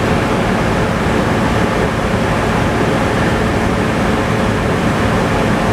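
Tractor engine running steadily at constant speed.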